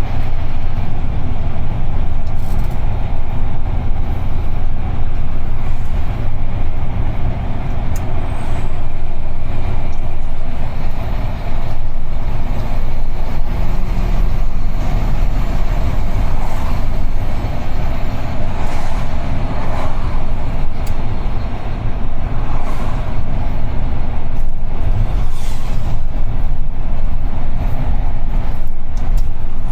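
UD Trucks Quon heavy truck on the move: a steady, loud low rumble of engine and road noise.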